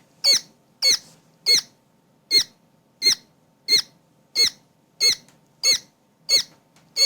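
Newly hatched quail chick peeping loudly and steadily, about eleven short, high, sharply bending calls evenly spaced at roughly one and a half a second.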